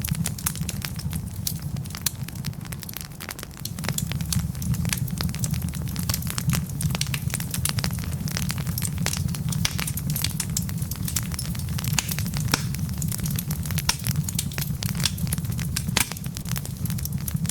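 Wood log fire crackling steadily, with frequent sharp pops and snaps over a low, even rumble of the flames.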